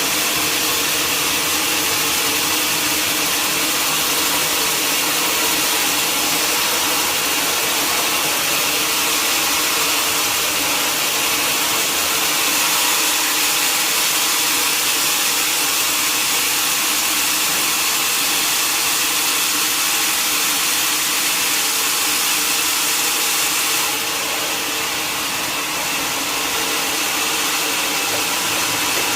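Sawmill saw machinery running steadily: a constant loud hiss and whine with a few steady tones, easing slightly near the end.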